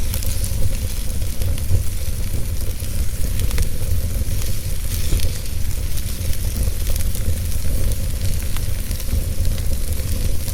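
Wood fire burning in a fireplace: a steady low rumble and hiss of the flames with frequent small crackles and pops of the burning wood.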